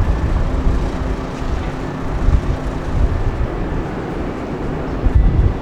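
Steady rumble and rushing of a car ferry underway, with irregular low wind gusts buffeting the microphone.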